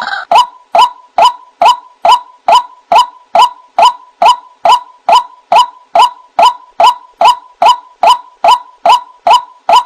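White-breasted waterhen calling a steady run of short, identical 'wak' notes, a little over two a second.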